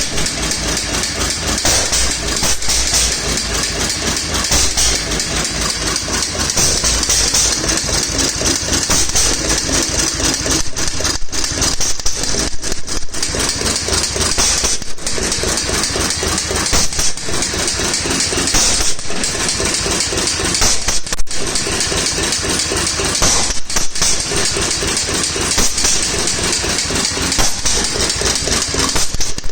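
Small single-cylinder Waterloo Boy stationary gas engine running.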